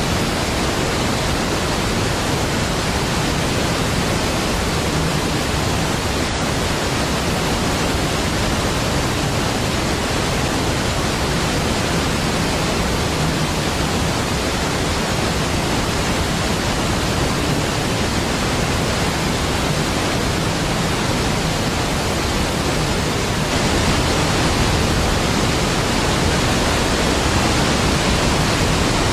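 Niagara Falls, a large waterfall, rushing steadily as a deep, even wash of water noise, a little louder for the last few seconds.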